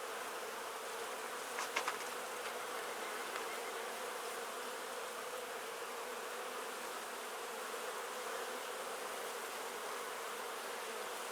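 Steady humming of a honeybee colony around an open Langstroth hive during an inspection. A few faint clicks come a little under two seconds in.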